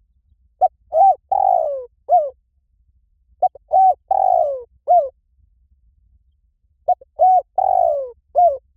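Spotted dove cooing in three repeated phrases about three seconds apart. Each phrase is a short note, a coo, a long coo falling in pitch, and a short closing coo.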